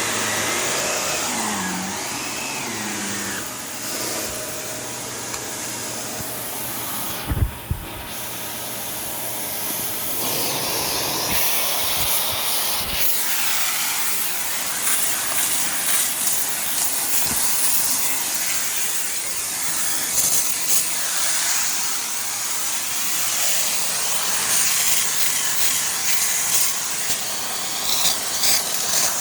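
Shark Navigator Lift-Away NV351 upright vacuum running over carpet with a steady motor and airflow hiss. Two sharp knocks come about seven seconds in. Short crackles through the second half are grit being picked up from crunchy spots in the carpet.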